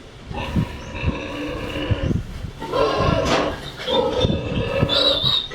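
Farm animals calling: a run of long, pitched calls one after another.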